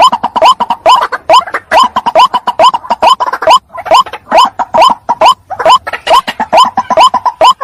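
White-breasted waterhen calling: a loud, rapid series of short, upward-hooked croaking notes, about three to four a second with brief gaps, as played for a lure call.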